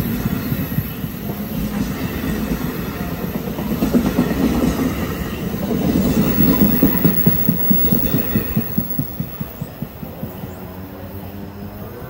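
NJ Transit double-deck commuter coaches rolling close past as the train pulls out of the station, their wheels clattering rapidly over the track. The clatter fades over the last few seconds as the rear cab car moves away.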